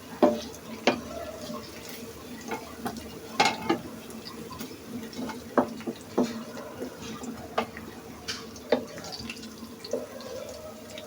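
Water running in a kitchen sink, with irregular sharp knocks and clinks throughout.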